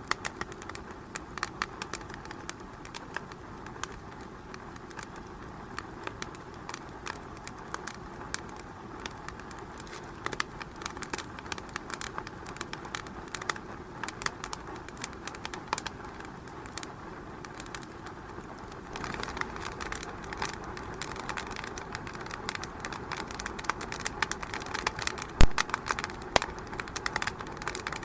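Wood fire in a fireplace crackling, with a steady run of small snaps and pops over a low hiss. The fire grows a little louder about two-thirds of the way in, and one sharp, loud pop comes near the end.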